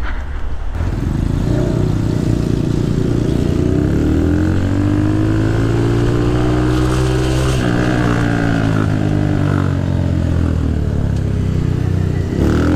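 Motorcycle engine running as the bikes ride off: its pitch climbs for several seconds under acceleration, eases back, then climbs again near the end.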